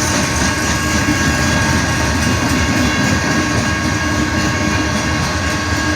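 CSX freight train rolling past at a grade crossing, a steady rumble and rattle of its cars on the rails.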